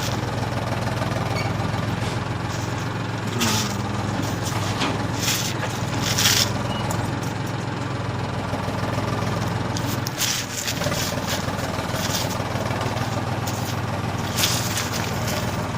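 Small motor of a DIY model tractor running steadily with an even hum, with short scraping noises several times.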